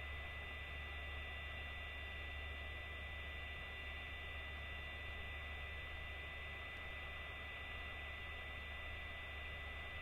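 Steady low electrical hum with an even hiss and a few thin, high steady tones; nothing starts or stops.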